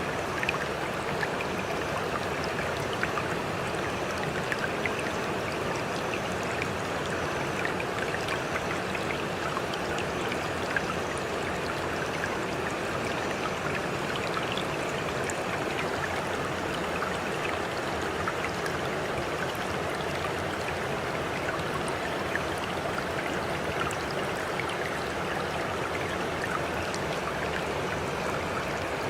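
Water running steadily, an even rushing with many small faint splashing ticks.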